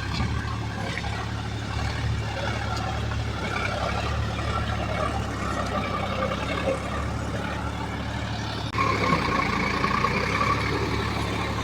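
Diesel engine of a JCB 3DX backhoe loader running steadily. About nine seconds in it gets suddenly louder and a higher steady whine joins.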